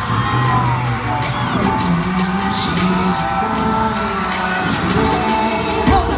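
Live pop music played loud over an arena sound system, with fans screaming and cheering over it.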